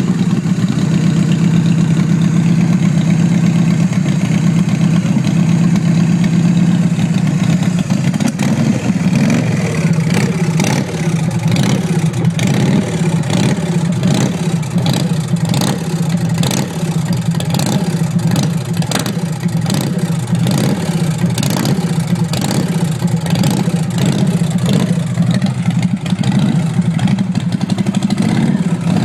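Loud custom chopper motorcycle engine running just after start-up: steady for the first several seconds, then from about eight seconds in running unevenly with repeated surges in level.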